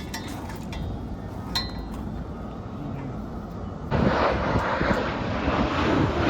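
Low, steady rumble of jet aircraft in the distance, with a few faint clinks. About four seconds in, a sudden louder rush of wind noise on the microphone takes over.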